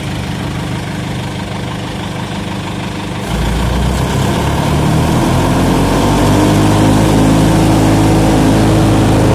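Diesel engine of a branch chipper running, then about three seconds in a deep low rumble comes in and the engine speeds up, its pitch climbing over the next few seconds to a steady higher speed.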